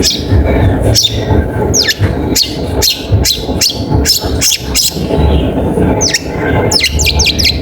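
Long-tailed shrike calling in a series of sharp, downward-sweeping notes, a couple a second, with a quick run of about five near the end, over a steady low rumble.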